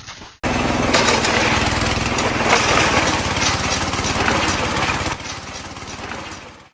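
An engine-driven machine running loudly with a fast, even pulse, which starts suddenly about half a second in and drops in level about five seconds in.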